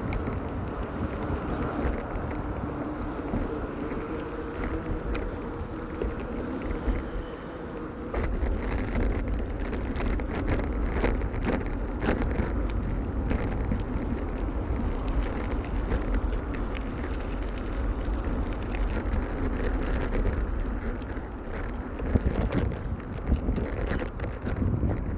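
Wind rushing over the microphone during a bicycle ride, with road traffic passing; the low rumble grows heavier about a third of the way in.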